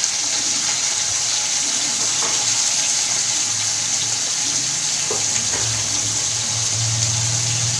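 Brinjal pieces frying in hot oil in a kadai, a steady sizzling hiss. A low hum rises near the end.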